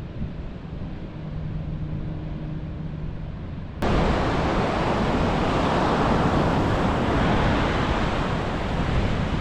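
Ocean surf and wind noise on the microphone, with a faint low hum under the first part. About four seconds in, the sound cuts suddenly to louder, fuller surf.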